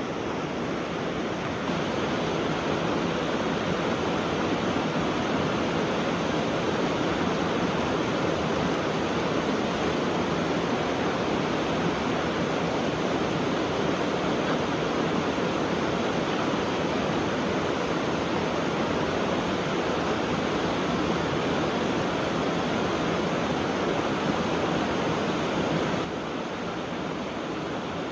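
Steady rush of a rainforest stream's flowing water, an even hiss with no distinct splashes; it drops a little in level a couple of seconds before the end.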